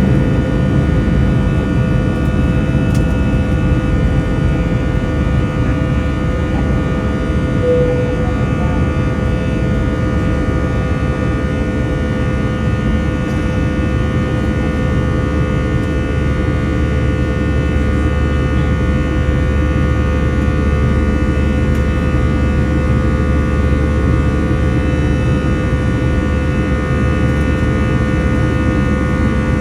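Airbus A321 jet engines running steadily, a constant rush of noise with several steady whining tones over it, heard from inside the airliner's cabin.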